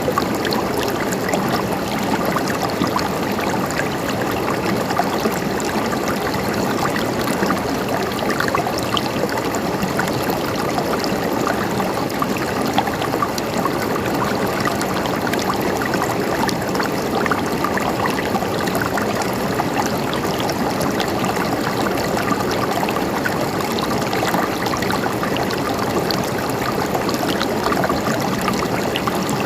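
A river flowing steadily, water rushing and gurgling over stones.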